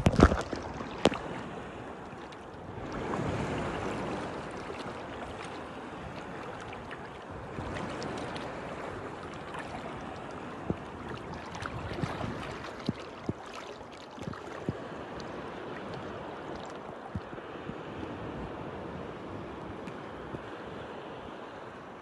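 Sea water washing and splashing, with a swell about three seconds in. Short sharp knocks are scattered throughout, loudest at the very start.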